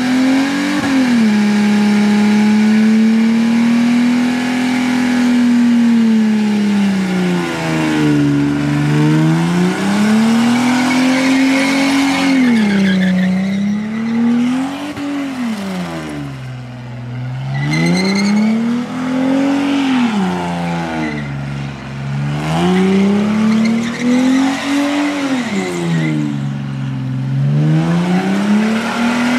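Holden VT Commodore's 3.8-litre V6 revving hard through a burnout, its pitch climbing and dropping over and over every two to three seconds and at times held high, over the hiss and squeal of the spinning rear tyres.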